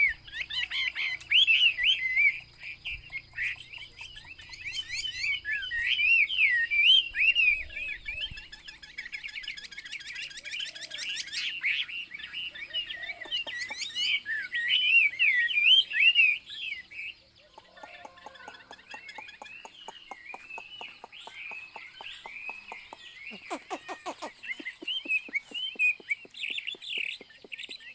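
Chinese hwamei singing a long, varied song of fast rising-and-falling whistled phrases. It is loud for the first two-thirds, then turns softer, with quick runs of clipped, rattling notes near the end.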